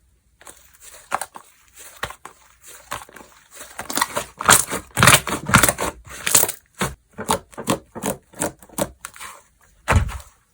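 Slime squished and pressed by hand, making sticky clicking and popping sounds. The pops come thick and fast through the middle, then settle into regular presses about twice a second, with a louder squelch near the end.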